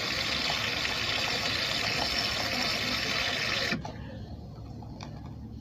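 De'Longhi Rivelia espresso machine's automatic milk frother steaming and frothing milk: a steady hiss that cuts off suddenly about three and a half seconds in, leaving a fainter low hum.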